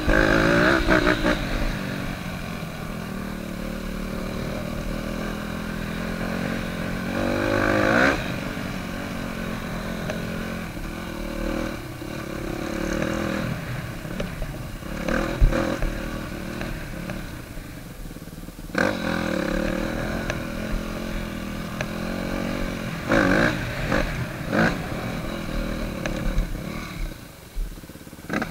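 Yamaha YZ250F's four-stroke single-cylinder engine running while riding, its pitch rising and falling with the throttle, with sharp revs several times.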